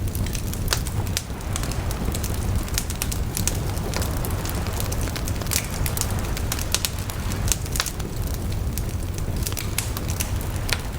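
Wood fire burning, with frequent sharp pops and crackles over a steady low rumble of the flames.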